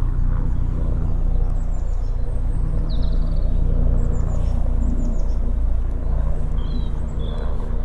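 A steady low rumble with a constant hum, with small birds giving short high chirps several times over it.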